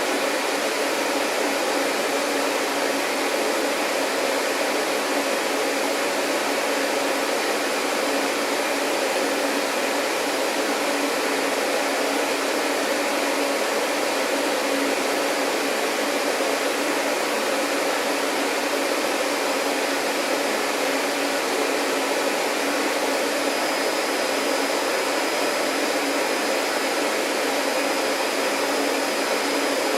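Vacuum cleaner running steadily with an even rushing noise. A faint high thin whine joins about two-thirds of the way in.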